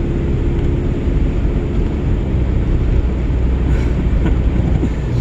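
Steady low rumble of engine and road noise from inside a moving vehicle's cab.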